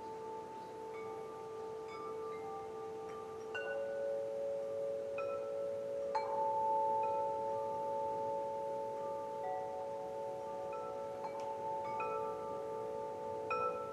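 Wind chimes ringing gently: several pitches sound together and sustain in long, overlapping tones, with new strikes now and then, the clearest about 3.5 and 6 seconds in.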